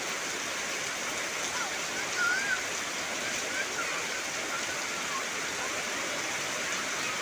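Heavy rain falling steadily on trees, an even rushing hiss. Faint short chirping calls come through now and then.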